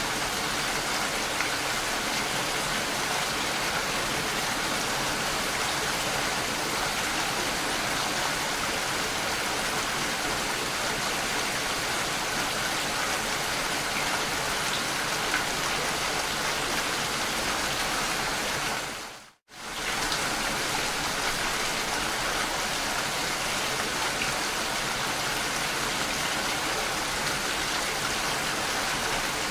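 Steady rain-like water noise: an even, continuous hiss. About two-thirds of the way through it fades out briefly to silence and comes straight back.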